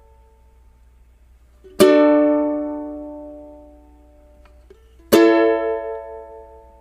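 Two strummed chords on a plucked string instrument, about three seconds apart, each struck sharply and left to ring out and fade.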